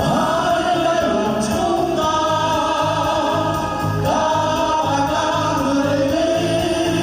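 Group of voices singing a song over backing music with a steady, regularly pulsing bass beat.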